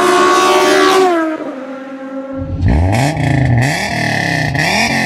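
Engines at high revs, edited together: the first winds down with its pitch falling, then about two seconds in a different engine is revved up sharply and blipped up and down several times.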